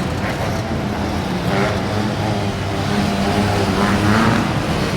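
Motorcycle engines running low and steady in street traffic.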